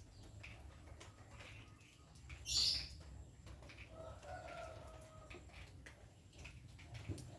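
Pet lovebird chirping softly, with one loud, shrill squawk about two and a half seconds in.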